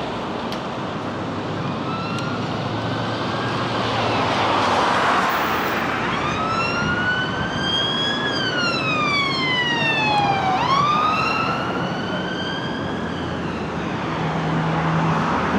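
Siren wailing: a tone that rises slowly, falls over a couple of seconds, then sweeps sharply back up and fades, over steady background noise.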